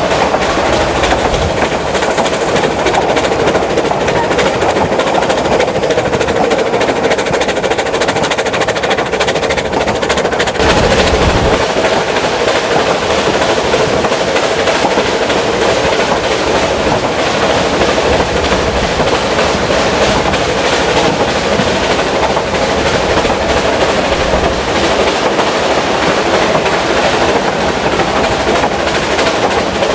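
Vale of Rheidol narrow-gauge steam train running, a loud, rapid, continuous clatter.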